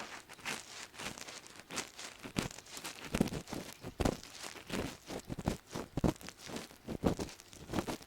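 Ear pick scraping and rubbing deep inside a microphone's ear, a run of uneven scratchy strokes, several a second, with crackling.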